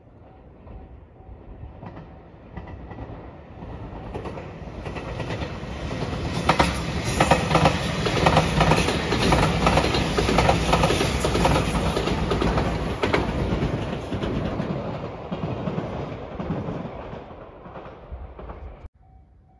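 JR Shikoku 8600 series limited express electric train passing, growing louder as it approaches and fading as it goes away, with a run of wheels clicking over rail joints as it goes by. The sound cuts off suddenly near the end.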